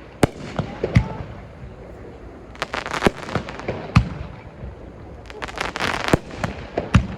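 Aerial fireworks bursting at close range: several sharp bangs, with two stretches of dense crackling, around a third of the way in and again past the middle.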